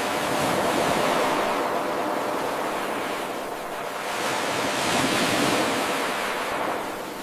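Ocean waves breaking and washing in, two swells rising and falling. The recording is an eight-second loop, and it restarts abruptly, with a sudden jump in level, right at the start.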